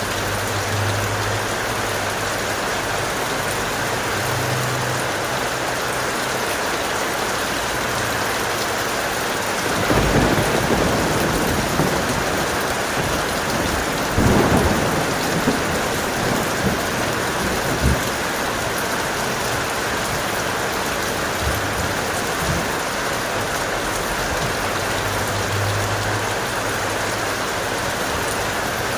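Steady heavy rain with thunder rumbling: a short roll about ten seconds in, then a longer roll with a few sharp peaks from about fourteen to eighteen seconds.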